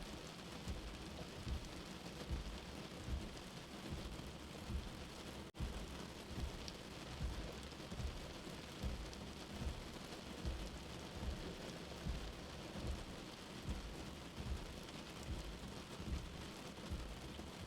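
Steady rain hiss with a soft, low heartbeat pulsing about once every 0.8 seconds under it. The sound drops out for an instant about five and a half seconds in.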